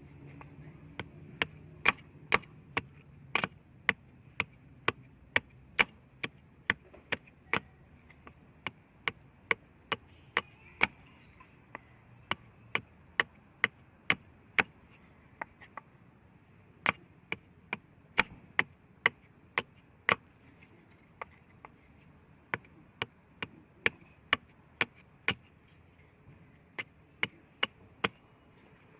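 A knife chopping on a cutting board: sharp, separate knocks at about two to three a second, coming in uneven runs with short pauses between.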